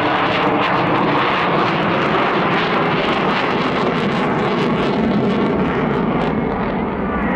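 Jet aircraft in an airshow display, its engine noise steady and loud.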